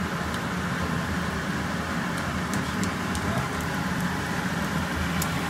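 Meat slices and chopped onion sizzling in a stainless steel frying pan, with a few sharp pops of spitting fat. A steady low hum runs underneath.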